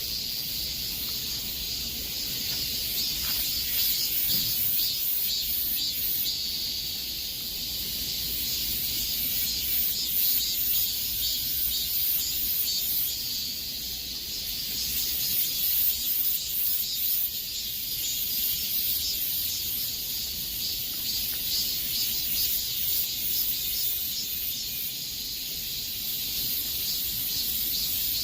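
A chorus of cicadas buzzing steadily, high-pitched, swelling and easing slowly in waves.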